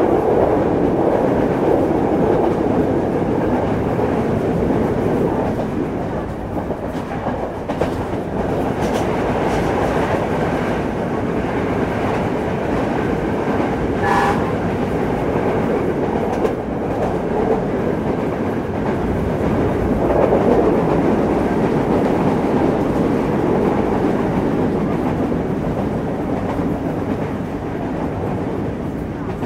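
Passenger train running along the track, heard from the open side of a moving carriage: a steady rumble of wheels on rails with occasional clicks as the wheels pass rail joints.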